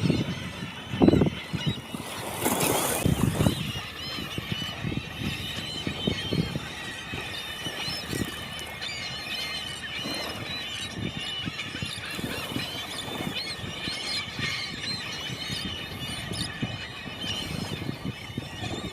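Birdsong played back in slow motion: many overlapping chirps pitched down into drawn-out, squeal-like glides. There are a few louder low thumps and a burst of hiss in the first few seconds.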